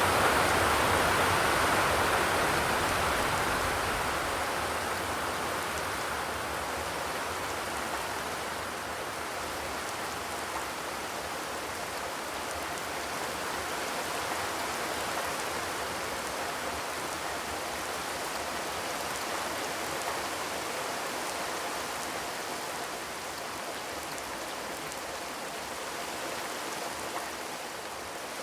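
Steady rain falling on a zinc roof, a continuous hiss of drops. It is heavier over the first few seconds, then eases to a softer, even patter.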